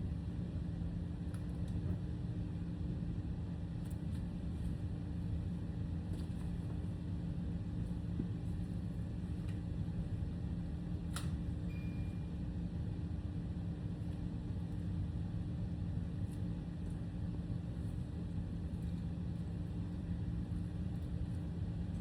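Steady low rumble with a constant hum, a few faint clicks and one sharper click about eleven seconds in.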